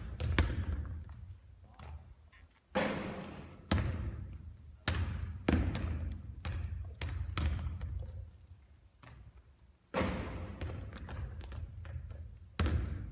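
Basketball bouncing and thudding during three-point shooting practice: a string of separate, irregularly spaced impacts, each followed by an echoing tail.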